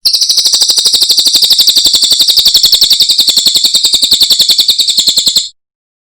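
A cililin songbird gives a loud, rapid, even trill of about thirteen high notes a second. It stops abruptly about five and a half seconds in.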